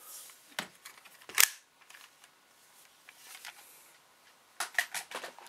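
A few sharp clicks and taps of objects being handled: one louder snap about a second and a half in, and a quick run of clicks near the end.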